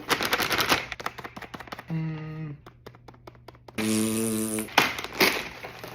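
A person chewing a snack close to the microphone. A rapid run of crunchy clicks comes in the first second, then two short hummed 'mmm's of approval, about two and four seconds in.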